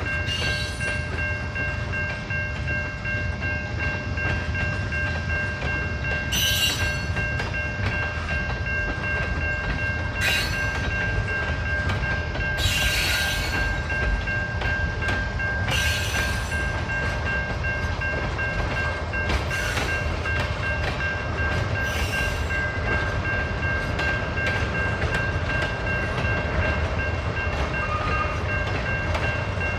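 A train rolling past with a steady low rumble of wheels on rail and a few steady high tones. Brief screeches or clanks come from the cars about every three to four seconds until about two-thirds of the way through.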